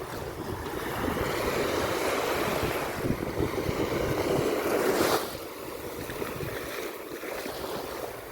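Sea waves washing onto a sandy beach, with wind buffeting the microphone. The surf builds from about a second in, breaks loudest at about five seconds, then falls back to a softer wash.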